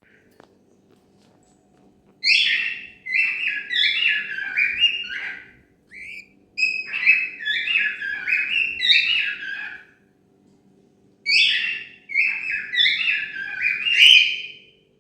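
Cockatiel whistling its song: three phrases of quick stepping whistled notes, the first starting about two seconds in, with short pauses between them.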